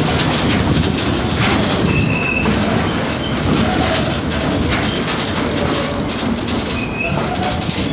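Passenger excursion train at Stone Mountain Park running along the track: a steady rumble and clatter of the wheels on the rails, with two brief high squeals, about two seconds in and near the end.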